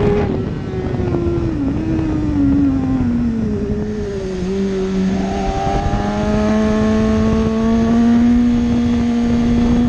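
BMW superbike's inline-four engine heard from on board: the revs drop away over the first few seconds as the bike slows for a corner, sit low for a moment, then climb slowly and steadily as the throttle is rolled back on through the turn.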